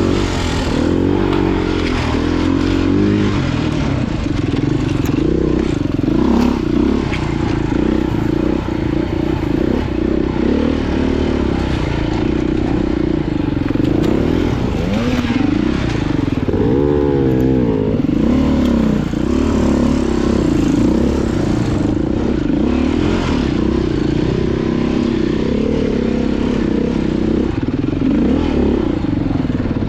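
Dirt bike engine revving up and down constantly while being ridden hard over rough off-road trail, with short knocks mixed in.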